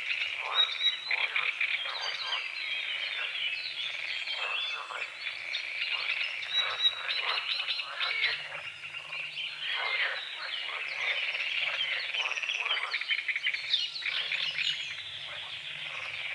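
A chorus of frogs croaking, many overlapping rattling calls without a break.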